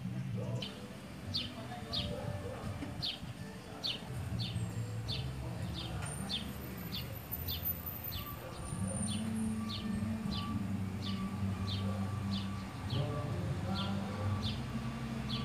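A bird calling a short, falling chirp over and over, about twice a second, over a low steady hum that grows louder about nine seconds in.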